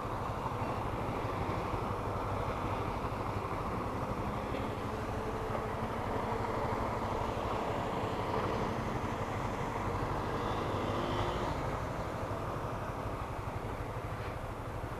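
Motorcycle running steadily on the move, its engine under a constant rumble of wind and road noise.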